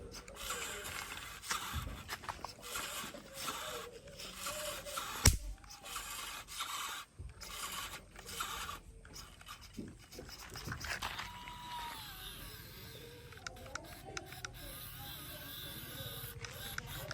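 Remote-control toy tractor running with its trolley, giving an uneven scraping, rubbing noise that stops and starts, with one sharp loud click about five seconds in.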